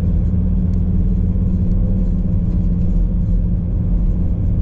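Car engine and road noise while driving, a steady low drone.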